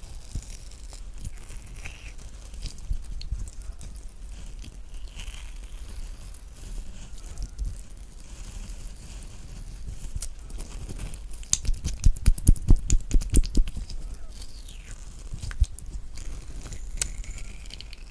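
A spoon scooping the flesh out of a halved kiwi: soft wet scraping and small clicks against the skin, with a quick run of about ten sharp scrapes a little past the middle.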